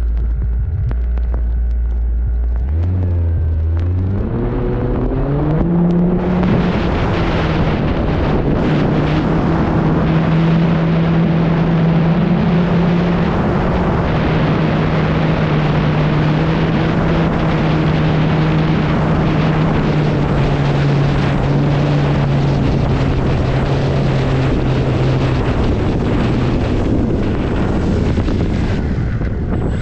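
E-flite Extra 300 RC plane's electric motor and propeller throttling up, with the pitch rising over a few seconds, then running steadily at high power with a heavy rush of wind and propeller noise, easing off near the end.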